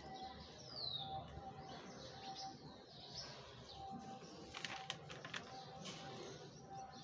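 Faint bird chirps, one a quick downward-sliding whistle about a second in. A few sharp crackles of a paper notebook page being turned come about two-thirds of the way through.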